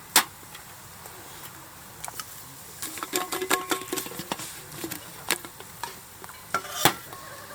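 Metal cookware and utensils clinking and knocking while a camp meal is cooked. A sharp knock comes near the start, a quick run of ringing clinks about three seconds in, and two more knocks near the end.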